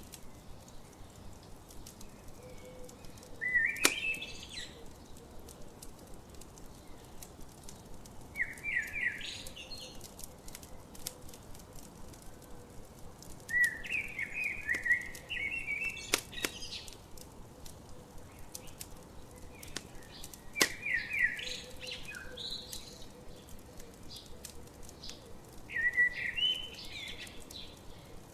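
A songbird singing short, rapid trilled phrases about every five seconds, over the sharp pops and crackles of a campfire, a few pops standing out loudly.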